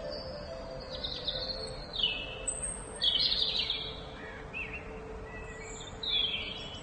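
Wild birds calling: short high chirps and falling trills every second or so, the loudest about three seconds in.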